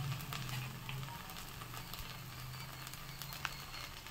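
Pointed-gourd paste frying in oil in a kadai: a faint, steady sizzle with scattered small crackles. A low hum fades out in the first second and a half.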